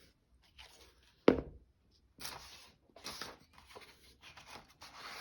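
A single sharp knock on a tabletop about a second in, followed by a run of short rustling and scraping sounds of paper craft materials being handled.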